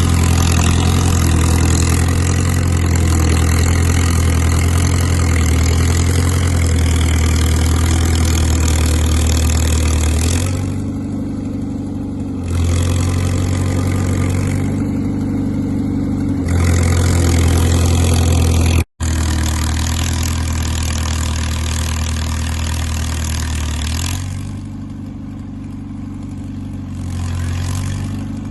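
Caterpillar crawler dozer's diesel engine running steadily, its note dropping and coming back up several times as the load or throttle changes. The sound cuts out for a moment about two-thirds of the way through.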